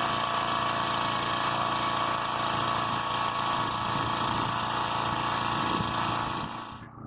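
Scuba air compressor running steadily at a constant pitch with a hiss over it, cutting off just before the end.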